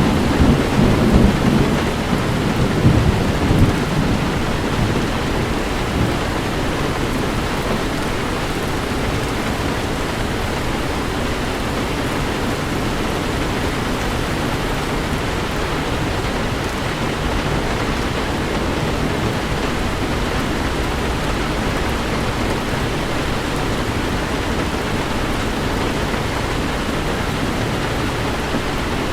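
Heavy rain falling steadily on a car driving through a storm, an even hiss. A low rumble of thunder swells over the first few seconds and fades about four seconds in.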